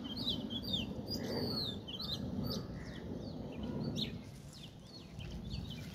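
Small birds chirping in quick, high, down-slurred notes, busiest in the first second or so and thinning out after, over a steady low background rumble.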